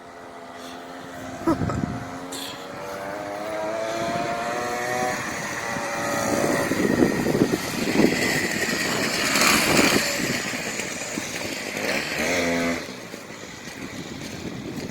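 GB Moto 49cc mini dirt bike engine accelerating, its note climbing in pitch for a few seconds. It is loudest through the middle as the bike runs close, then the pitch drops near the end and the engine fades.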